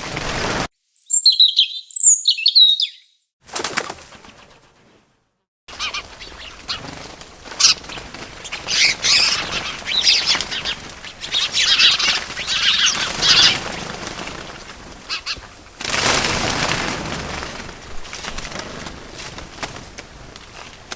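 Small birds chirping, with bursts of flapping wings, in short segments joined by abrupt cuts. A couple of quick sweeping chirps come about a second in, then after a brief silence there is a longer stretch of chirping over rustling noise.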